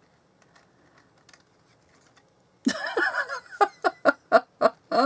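A woman laughing, breaking into a quick run of short laughs about halfway through after a quiet stretch with a few faint ticks.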